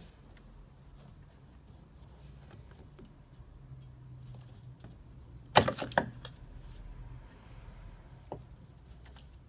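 A quick cluster of sharp clicks and knocks from hand work on parts, a little over halfway through, with a single fainter click near the end, over a low steady hum.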